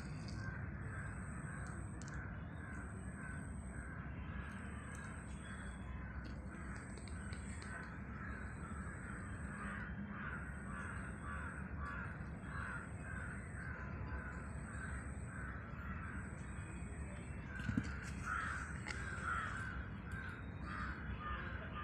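Bird calls repeating steadily, a few a second, through most of the stretch, with a faint high whine pulsing on and off about once a second above them. A single sharp knock comes near the end, followed by louder, more irregular calls.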